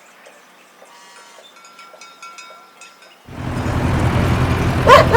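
Faint bird chirps, then a tractor engine starts running about three seconds in with a steady low rumble. A dog begins barking near the end.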